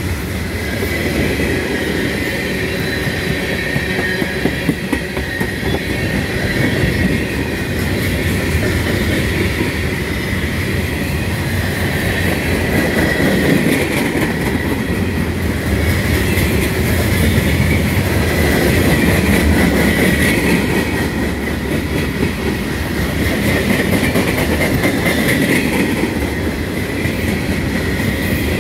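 Freight cars of a long mixed freight train rolling past at close range: a heavy steady rumble with the clickety-clack of wheels over rail joints. Over it runs a constant high-pitched wheel squeal that swells and fades.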